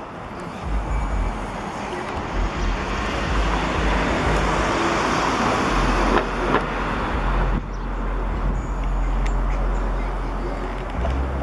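Road traffic: a passing vehicle's noise swells to a peak around five seconds in and falls away a couple of seconds later, over a steady low rumble.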